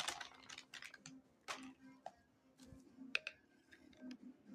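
Scattered light clicks and taps of a whisk against a mixing bowl while dry brownie mix is poured in and stirred.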